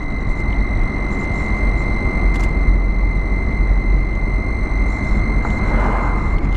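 Steady road and engine rumble of a car driving, heard from inside, with a steady high-pitched whine over it.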